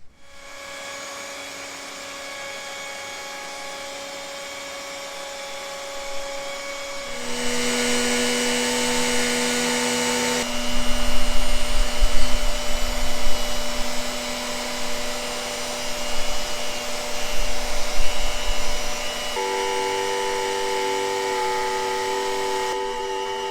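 Electric power-tool motor running with a steady whine that shifts in pitch a few times. It grows louder and uneven from about ten seconds in, as it works the material.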